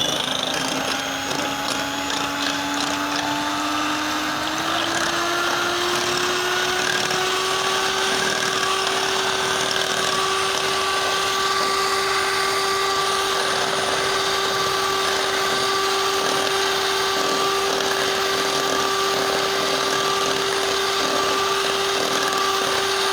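Electric mixer running steadily at medium speed, whipping chilled cream with rose syrup. Its pitch rises a little over the first few seconds, then holds steady.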